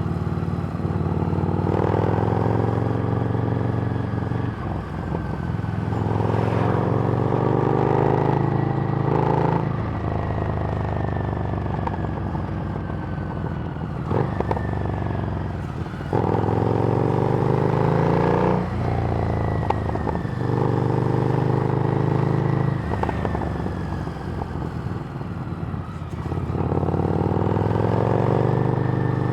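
Harley-Davidson Street Rod's 750 cc V-twin running through a Screamin' Eagle exhaust while riding. The engine pulls up through the revs and drops back at gear changes or roll-offs, about six times.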